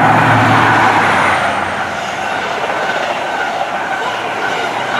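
High Speed Train with Class 43 diesel power cars passing through at speed: steady diesel engine and rail noise, loudest in the first second or two and easing slightly after.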